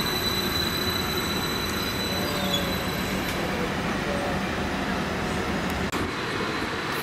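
Transport for Wales Class 231 Stadler FLIRT diesel multiple unit running past and away along the track: a steady rumble of wheels and running gear, with a thin high whine held throughout.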